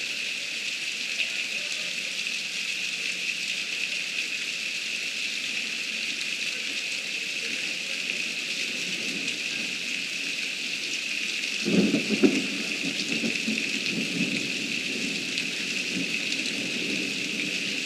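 Heavy rain falling steadily. About twelve seconds in, thunder breaks with a sudden crack and rolls on as a low rumble under the rain.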